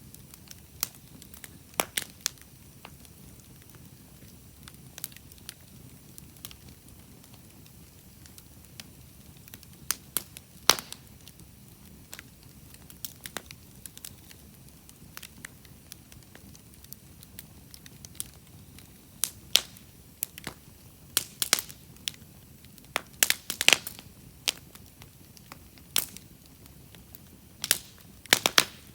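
Wood campfire crackling, with irregular sharp pops and snaps from the burning logs over a faint low hiss, coming in quick clusters in the second half.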